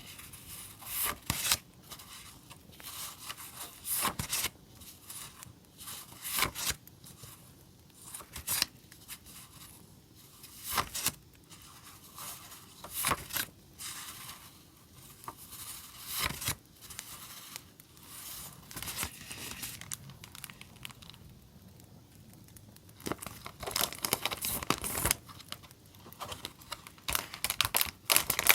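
Paper and plastic stationery packaging rustling and crinkling in short bursts every second or two, as sticker packs and paper items are handled and unwrapped.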